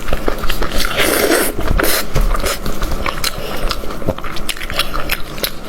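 Close-miked eating: a person biting and chewing cooked meat, with many quick wet clicks and smacks of the mouth throughout.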